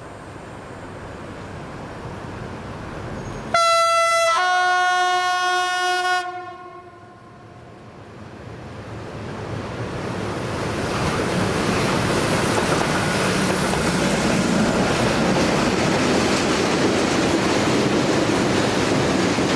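Diesel-electric Traxx BR285 locomotive sounds its two-tone horn, a short higher note then a longer lower chord, a few seconds in. The freight train then approaches and passes, a rising rumble that turns into a loud steady rush of the locomotive and wagons on the rails.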